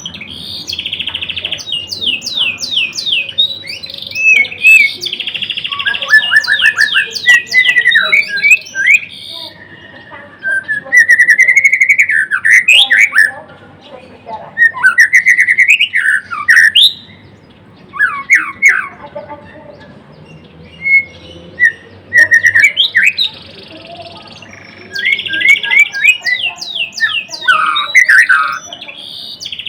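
White-rumped shama singing a loud, varied song: quick runs of falling whistled notes, harsh buzzy phrases and slurred warbles, broken by short pauses.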